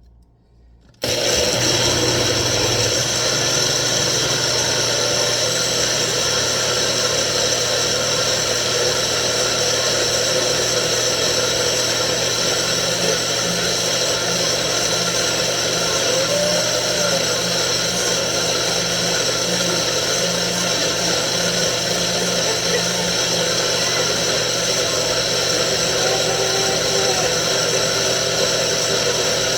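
Electric blender switched on about a second in and running steadily, blending banana, apple, oats and peanuts into a smoothie.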